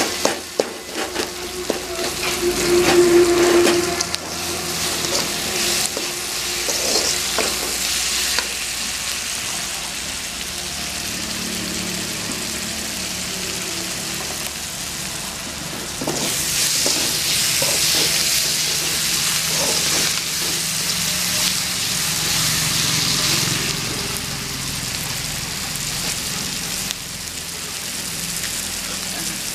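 Chopped onions, tomatoes, green chilies and curry leaves sizzling in oil in a metal kadai, stirred and scraped with a metal slotted spoon that clicks against the pan. The sizzle grows louder past the middle.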